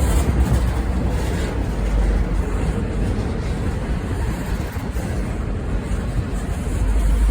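Goods train passing, a steady loud rumble.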